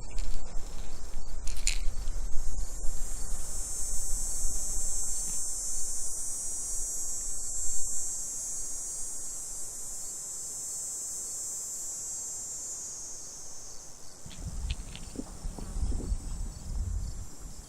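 Insects buzzing in a steady high-pitched drone that swells and then fades out about thirteen seconds in. Low rumbling on the microphone at the start returns near the end with a few faint clicks.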